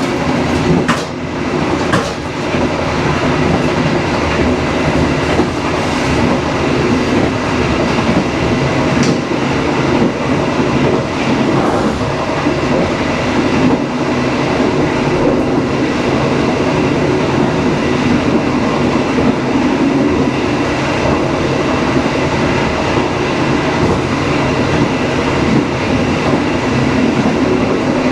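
Passenger train running on the rails: a loud, steady rumble of wheels and carriage, with a few sharp clicks from the track in the first couple of seconds.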